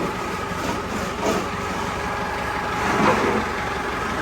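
A steady mechanical hum, with two brief louder sounds about a second in and about three seconds in.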